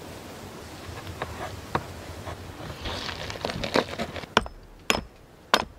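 A series of sharp clicks and knocks over a steady hiss. The clicks come thick and light at first, then turn into a few loud, separate knocks about four seconds in, when the hiss drops away.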